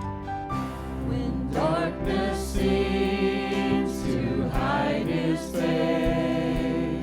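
Church hymn: voices singing over held keyboard chords, the singing coming in about a second in.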